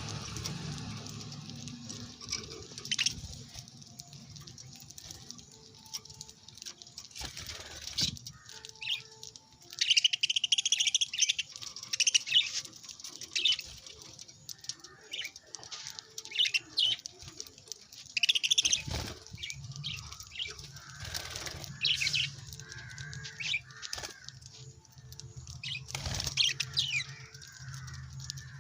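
Small pet parrots (lovebirds) chirping in short, high, repeated calls, with a few brief wing flutters or rustling thumps, over a low steady hum.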